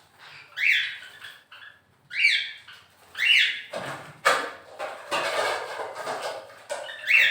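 Caged pet birds chirping: short calls that sweep downward in pitch, heard several times. A noisy stretch of about three seconds, the loudest part, comes around the middle.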